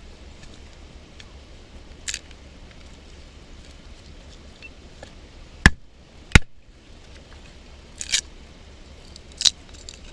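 Batoning wood: two sharp knocks of a baton striking the back of a Mora knife driven into a log, a little over half a second apart, with lighter cracking sounds from the wood around them.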